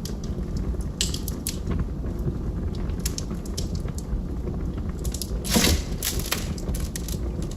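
Log fire crackling: scattered sharp pops and snaps over a steady low rumble of burning, with one louder crack about three quarters of the way through.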